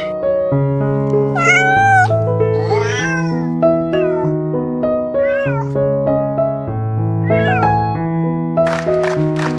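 A cat meows about five times, each call bending up and falling away, over background music of slow, held keyboard chords. Near the end a quick run of sharp taps begins.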